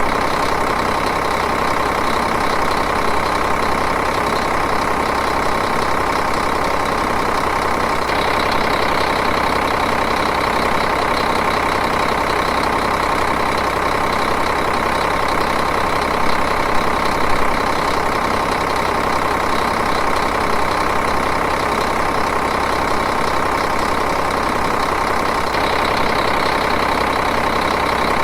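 Diesel engine idling steadily, with an even, unchanging running note.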